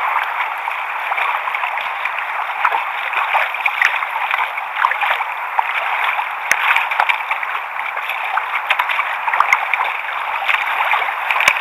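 Sea water lapping and gurgling against a kayak hull, a steady splashy hiss with a few light knocks, one about halfway through and one near the end.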